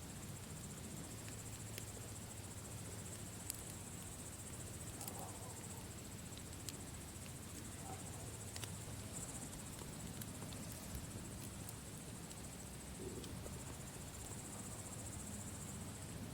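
Campfire burning, with scattered sharp crackles and pops over a low steady rumble, and a steady high chirring throughout.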